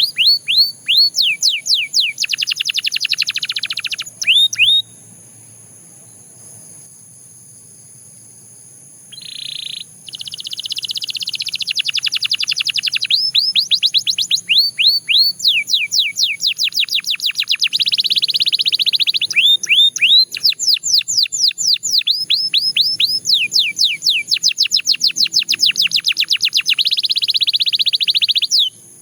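Canary singing in rolls of rapid, repeated downward-sweeping notes. The song breaks off for a few seconds early on, returns with a short buzzy note, and then runs in long rolls until it stops just before the end.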